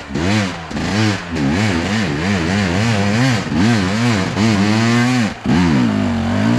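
Enduro motorcycle engine revving up and down in quick, repeated throttle blips, about two a second, with a short drop in revs near the end.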